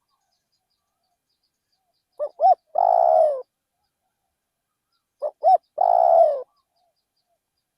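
Spotted dove cooing: two calls about three seconds apart, each of two short notes followed by a long coo that falls in pitch.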